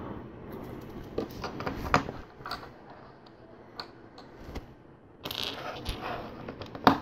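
Small plastic LEGO pieces clicking and rattling as they are handled and picked out, with a short rustle about five seconds in and a sharp click near the end.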